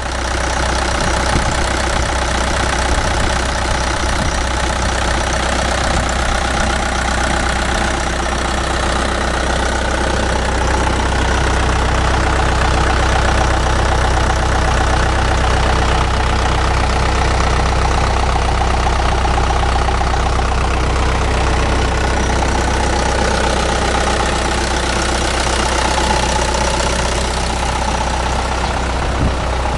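Mitsubishi Canter's 4D34-T four-cylinder turbodiesel engine running steadily at an even speed, which the owner presents as normal, healthy running.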